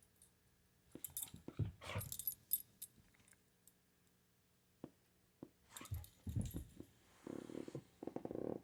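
A cat and a dog squaring off: jingling collar tags and scuffling movement in two spells, then a low, fast-pulsing growl near the end.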